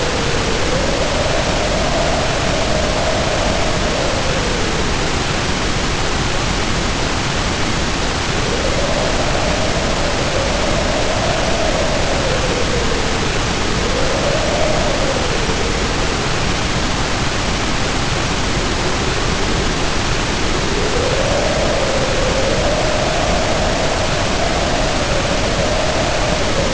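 Storm wind howling over a steady hiss of heavy rain. The howl swells and fades about four times, its pitch rising and falling with each gust.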